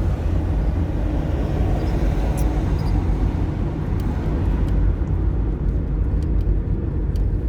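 Steady low rumble of a car driving along a main road, engine and tyre noise heard from inside the cabin.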